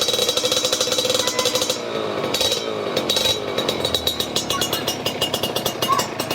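Kawasaki Ninja 150 single-cylinder two-stroke engine revving through an aftermarket galvanized-steel exhaust, its raspy note falling and rising several times as the throttle is blipped.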